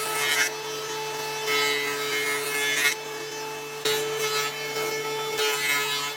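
Long, repeated strokes of a hand woodworking tool cutting into wood, about four strokes, with a steady hum underneath.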